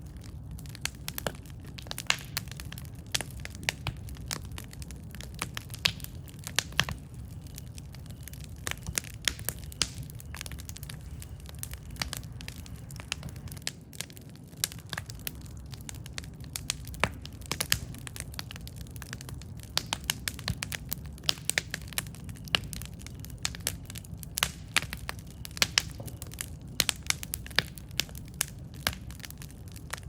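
Campfire burning with a steady low rumble and many irregular sharp crackles and pops from the burning wood.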